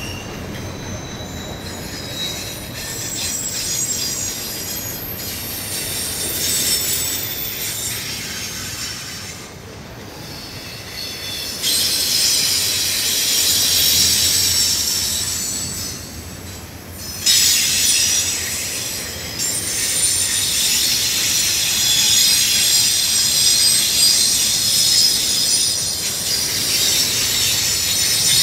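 CN freight train rolling past close by, its steel wheels squealing against the rail in many high, wavering tones over a steady rumble. The squeal dips twice and comes back sharply louder, about twelve and seventeen seconds in.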